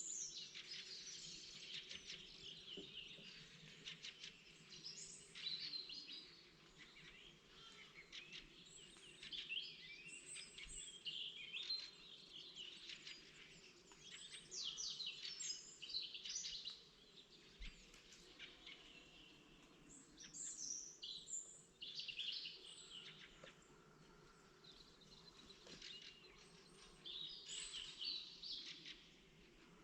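Several songbirds singing in spring, short chirps and trilled phrases overlapping one another with brief lulls, over a faint steady low background noise.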